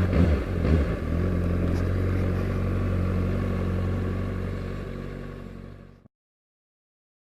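Honda CBR600RR's inline-four engine running on the road at a steady speed, its note wavering briefly in the first second. About five seconds in it fades out and drops to dead silence.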